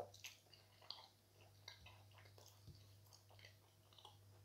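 Faint, crunchy chewing of a mouthful of edible chalk: a run of small crackling clicks as the lump is ground between the teeth, over a steady low electrical hum.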